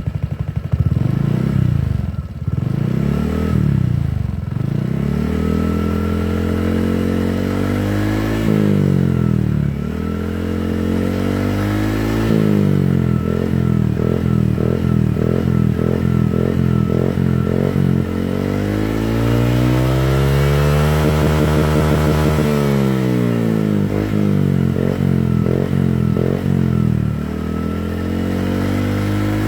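Automatic scooter's single-cylinder engine revved through a Voltecx TZM Project racing exhaust, with a deep, bassy note. The throttle is blipped in quick bursts several times and held for one longer rev partway through, the pitch rising and falling with each.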